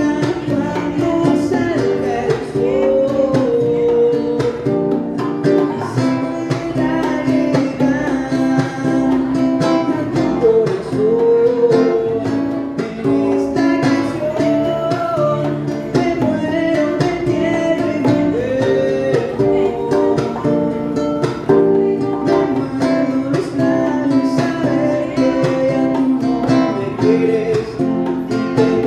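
Music: an acoustic guitar playing, with a sung melody line over it.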